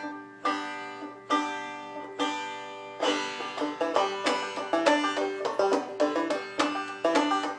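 Banjo music: a few slow, ringing plucked chords about a second apart, then quicker picking from about three seconds in.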